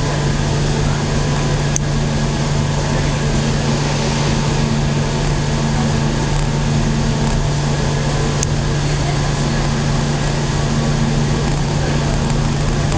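Inside the car of a Hokuriku Main Line local train running: a steady rumble of wheels on rail with a low, steady hum underneath.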